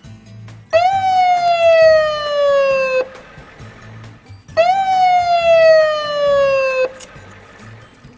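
Ambulance siren sound effect: two long wails, about a second in and again about four and a half seconds in, each jumping up quickly in pitch and then falling slowly for about two seconds.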